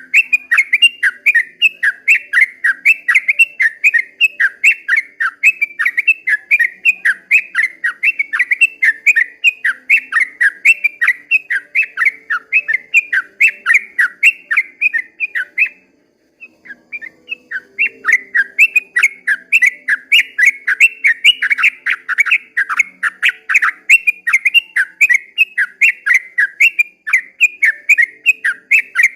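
Yellow-vented bulbul (trucukan) singing a long, fast run of repeated bubbling notes, about four a second. The song breaks off for about a second and a half midway, then starts again.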